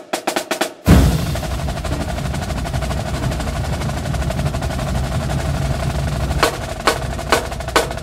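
Percussion music: a few quick drum strokes, then a sustained drum roll from about a second in, and a handful of separate sharp hits near the end.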